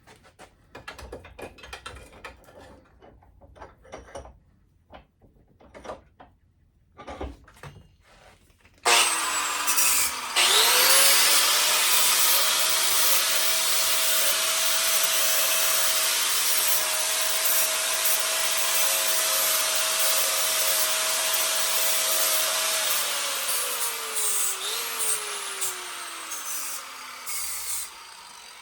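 A few light knocks and clatter of handling parts, then a handheld power tool switches on suddenly about nine seconds in, comes up to speed and runs steadily with a loud hissing, grinding noise for about twelve seconds, then winds down with a falling pitch near the end.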